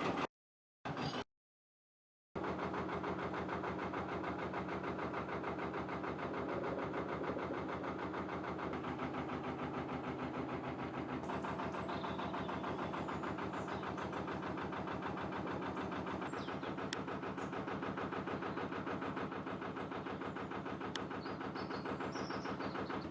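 Narrowboat's diesel engine running steadily with an even, rapid chugging pulse. The sound cuts out twice within the first two seconds.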